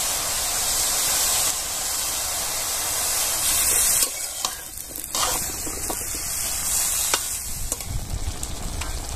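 Chopped water lily stems and spices sizzling in hot oil in a metal wok, a steady frying hiss. About four seconds in the hiss drops and the stems are stirred, with a few sharp scrapes and knocks against the pan.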